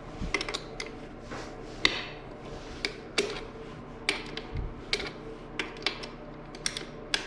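Hand tools clicking and clinking against metal in irregular single taps, about one every half second to a second, over a faint steady hum.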